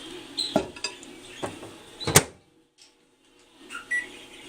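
Microwave oven handled with a plate inside: a few clicks and knocks, with a sharp clack of the door shutting about two seconds in, then a short high keypad beep near the end.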